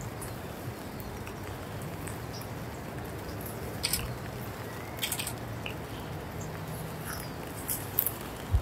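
Light rain falling: a steady hiss with a few scattered soft taps and ticks.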